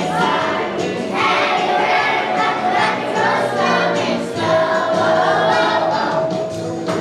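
Young children's choir singing a holiday song over instrumental accompaniment.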